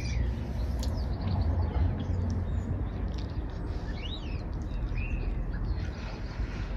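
A bird chirping a couple of times, short arching calls about the middle, over a steady low rumble.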